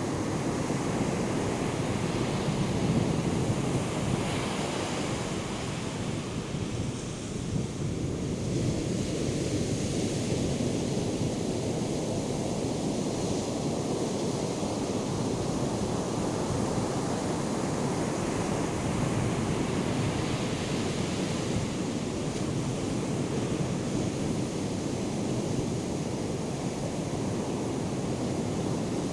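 Ocean surf from a hurricane swell breaking and washing ashore in a continuous rushing noise, swelling as waves break a few seconds in and again about two-thirds of the way through.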